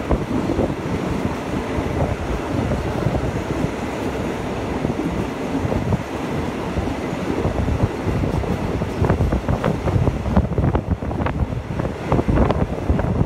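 Passenger train running, heard from an open carriage window: wind buffets the microphone over the low rumble of the carriage. From about nine seconds in, a run of sharp clacks from the wheels on the track comes through.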